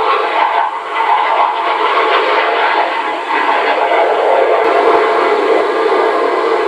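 Jet aircraft engine noise, loud and steady with a hissing whine.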